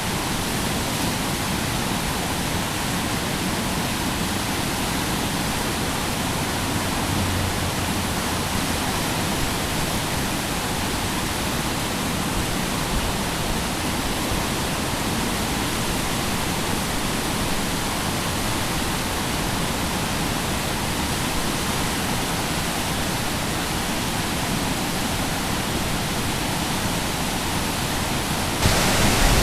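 Steady rushing of the flooded Calapooia River, an even wash of water noise that turns suddenly louder near the end.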